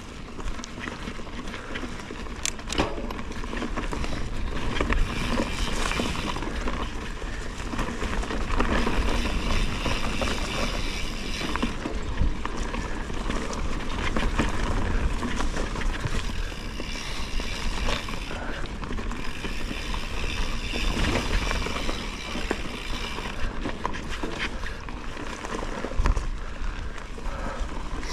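Mountain bike riding along a forest dirt trail: tyres rolling over the ground, with the bike's frame and chain rattling and clicking over bumps, and wind rumbling on the microphone.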